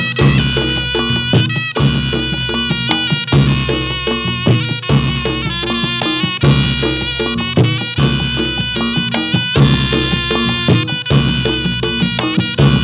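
Reog Ponorogo gamelan music for a jathilan dance: a shrill, reedy slompret (shawm) melody over drums and gongs, in a steady repeating beat.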